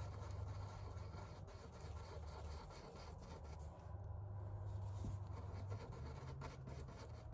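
Paintbrush strokes, faint scratchy rubbing with scattered light ticks, over a steady low hum.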